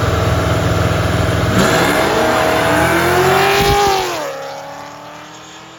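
Drag-racing cars at full throttle down the strip, engines loud and rising in pitch, then fading away from about four seconds in as they pull off into the distance.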